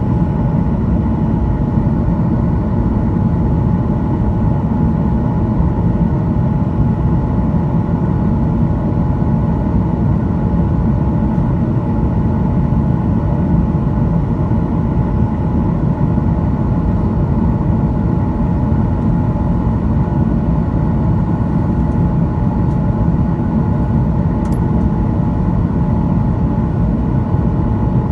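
Boeing 737-900ER cabin noise in flight: a steady rumble of engines and airflow, with a constant engine whine over it.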